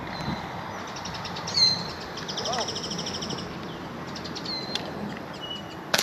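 Birds chirping and trilling against open-air rural background, with a rapid high trill about two to three seconds in. A single sharp crack at the very end, a shot from the rifle aimed at an iguana.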